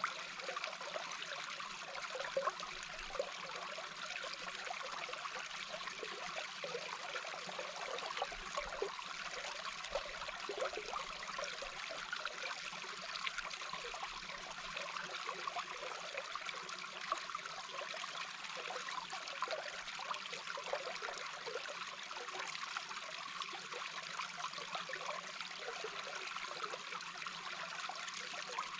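Small babbling brook heard from underwater: a steady rush of flowing water with a constant patter of small bubbling blips.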